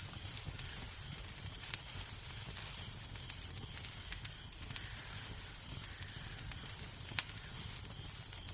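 Wood fire crackling in a fireplace: a steady hiss and low rumble with scattered sharp pops, two of them louder, one about two seconds in and one near the end.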